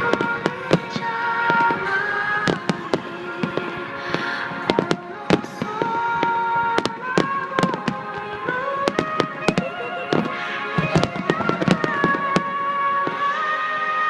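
Aerial fireworks bursting in a rapid, irregular string of sharp bangs over music playing with held notes.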